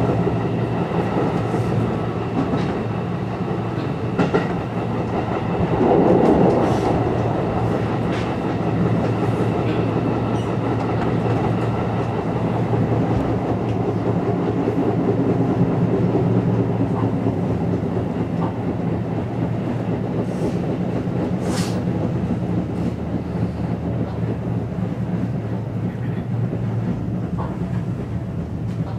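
Seibu 101 series electric train running, heard from the driver's cab: a steady rumble of wheels and motors with sharp clacks from the rail joints now and then. A louder rush swells briefly about six seconds in.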